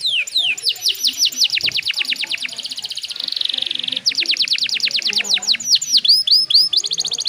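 Domestic canary singing: fast trills of repeated downward-sweeping notes, about ten a second, broken by a short buzzy phrase around the middle.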